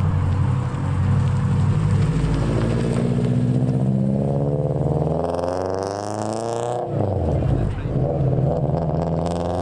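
A car engine running close by. Its note climbs over a couple of seconds as it revs or accelerates, drops sharply about seven seconds in, then settles back to a steadier run.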